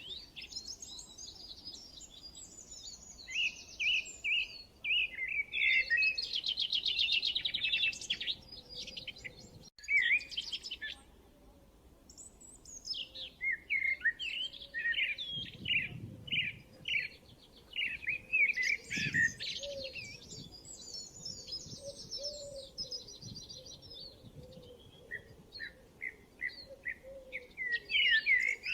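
Songbirds chirping and singing: many quick high chirps and rapid trills from several birds, with a short lull near the middle.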